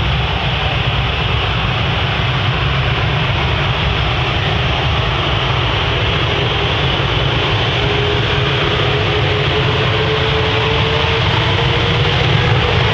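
Jet airliner landing: a steady loud roar with a heavy low rumble, and an engine whine that comes in about two-thirds of the way through and slowly rises in pitch.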